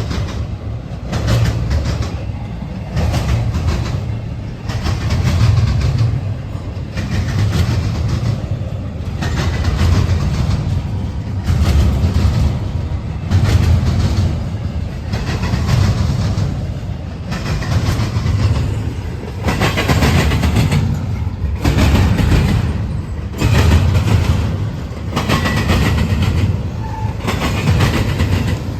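Freight train cars rolling past close by: steel wheels clicking over the rail joints, with a low rumble that swells and fades in a regular pattern about every two seconds as each car goes by.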